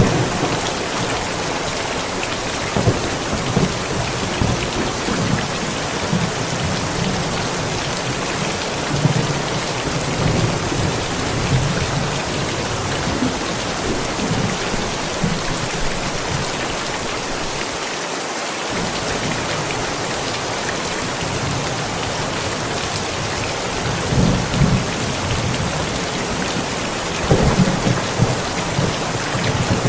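Steady heavy rain falling, with thunder rumbling several times, loudest near the end.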